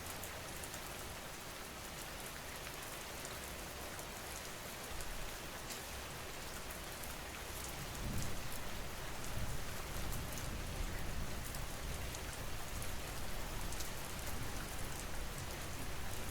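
Steady rain falling, an even hiss with fine drop ticks. About halfway through, a low rumble swells in beneath it and stays.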